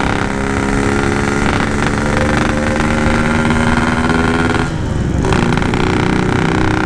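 Yamaha RX-King's two-stroke single-cylinder engine running at steady revs under way, heard over road and wind noise; it drops away briefly about five seconds in, then picks up again. The bike is down on power and won't pull, which the rider puts down to the carburettor needing to be set.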